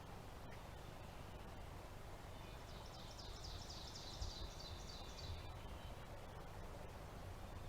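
A songbird singing a quick series of short, high-pitched notes for about two and a half seconds, starting about three seconds in, over a faint steady outdoor background.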